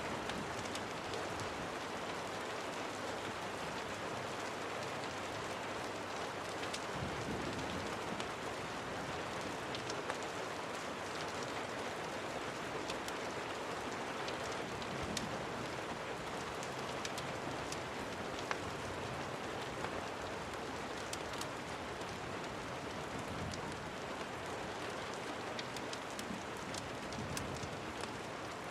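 Steady, even rain, with many small sharp ticks of individual drops scattered through it.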